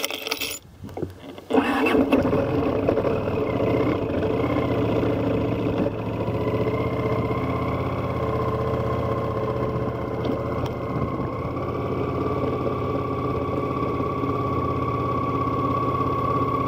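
Honda CX500 motorcycle's V-twin engine starting: it catches about a second and a half in and then runs steadily.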